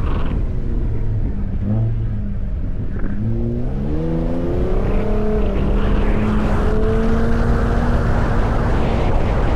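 Ford F-150 Raptor's twin-turbo V6 pulling through sand dunes. The engine note dips and climbs a couple of times in the first half, then holds a fairly steady pitch under load over a constant low rumble.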